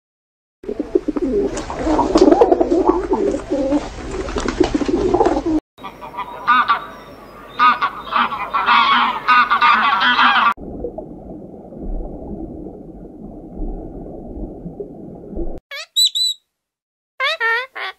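A string of separate animal sound clips. First comes a loud, busy stretch of overlapping calls. Then Canada geese and their goslings call in short repeated notes, followed by a low, muffled stretch. About two seconds before the end, a green-winged macaw gives a few short squawks.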